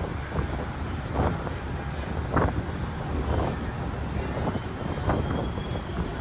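A steady low rumble with wind noise on the microphone, and a few brief louder gusts.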